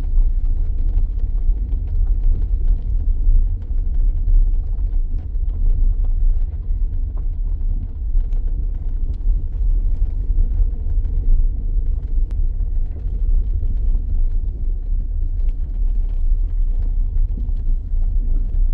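A steady low rumble with faint scattered ticks.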